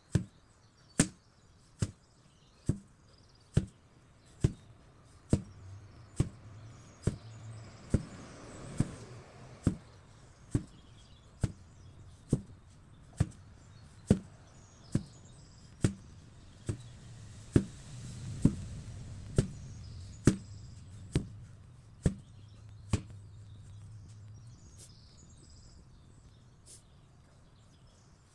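An 8 kg sledgehammer strikes a target over and over at a steady pace of a little more than one blow a second. A low hum swells twice in the background.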